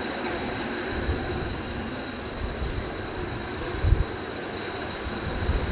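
Strong wind buffeting the microphone: a steady rushing noise with low, thudding gusts about four seconds in and again near the end.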